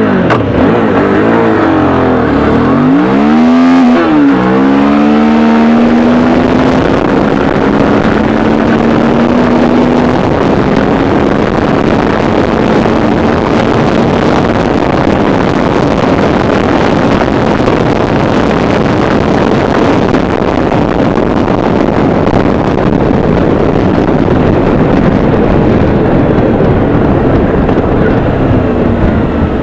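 Suzuki V-Strom 650's V-twin engine pulling hard from a take-off, revving up and dropping back through several quick upshifts. It then holds one long climb in a higher gear that fades under a steady rush of wind noise as speed builds.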